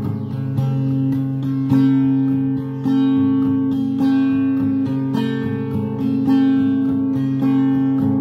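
Acoustic guitar strumming chords in an instrumental passage of a song, without vocals.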